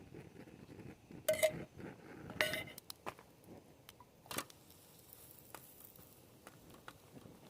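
Objects being handled: a few clinks and knocks, two louder clatters with a short ring about a second and a half and two and a half seconds in, then scattered faint clicks.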